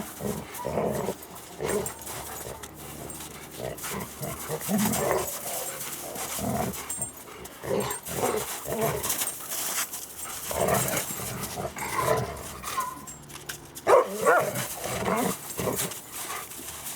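Dogs playing rough together, with short barks and growls again and again, and one sharp loud sound near the end.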